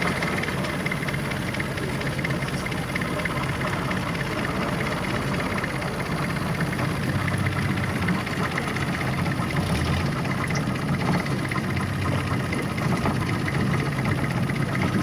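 A boat's engine running steadily with a low, even drone.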